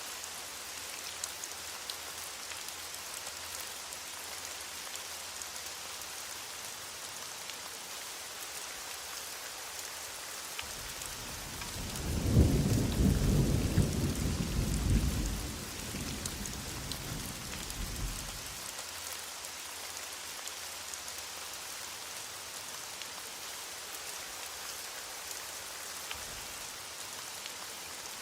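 Heavy rain falling steadily, with a roll of thunder about ten seconds in that swells, peaks and rumbles away over several seconds.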